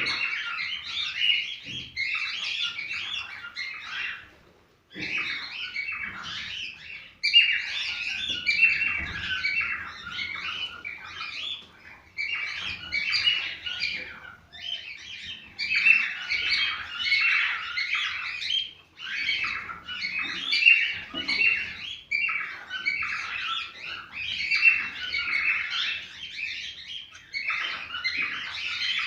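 Cockatiels chirping and whistling in dense, rapid phrases a few seconds long, with brief pauses between them.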